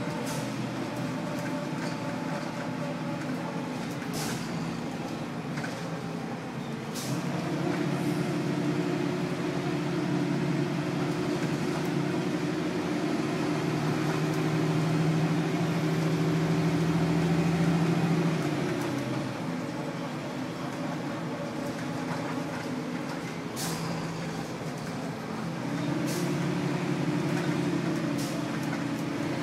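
Detroit Diesel Series 40 inline-six diesel of a 2000 Nova Bus LFS heard from inside the passenger cabin, running through its Allison B400R automatic transmission. The engine grows louder about a quarter of the way in, eases off about two-thirds of the way through, and grows louder again near the end, with a few sharp clicks or rattles scattered through.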